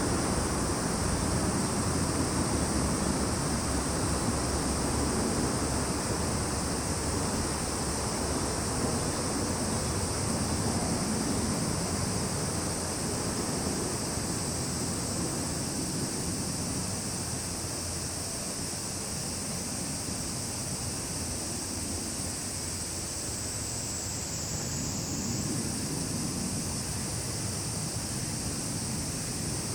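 A chorus of summer insects keeps up a continuous high-pitched shrill, with one voice dipping a little lower in pitch about three-quarters of the way through. An even low rumble of outdoor background noise runs underneath.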